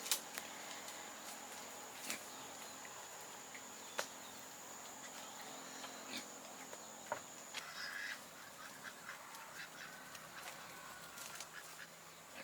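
Farmyard poultry calling now and then, with one clearer call about eight seconds in, among scattered light clicks and knocks. A steady high, thin tone, like an insect, runs underneath and stops just before that call.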